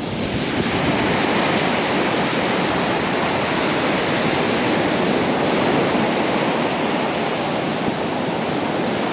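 Surf washing onto a beach: a steady, even rushing noise.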